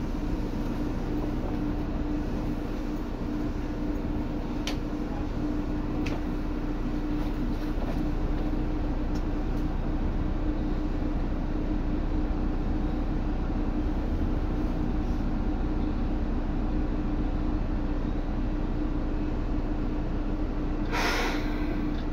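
Interior noise of a Seibu 2000 series electric train, heard from the floor above its HB-2000 unit: a steady hum with a constant low tone. Two faint clicks come a few seconds in, and a short burst of hiss comes near the end.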